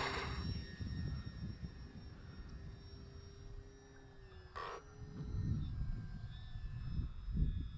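Electric motor and propeller of an FMS Sky Trainer Cessna 182 RC model plane in flight, a steady whine that dips slightly in pitch about five seconds in. Wind gusts rumble on the microphone, most strongly near the end, and there is a brief crackle about halfway through.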